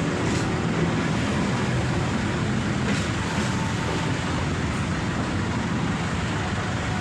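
A train passing through a railway level crossing, a steady rushing rumble.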